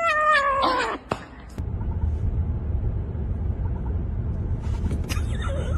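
A long, drawn-out cry falling in pitch that cuts off about a second in, followed by a steady low rumble.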